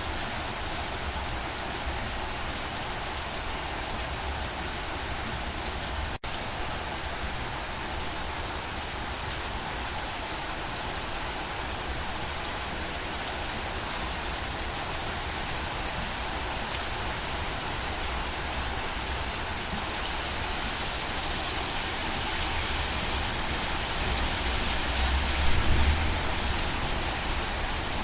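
Steady, heavy rainfall pattering on surfaces as an even hiss. There is a split-second dropout about six seconds in and a brief low rumble near the end.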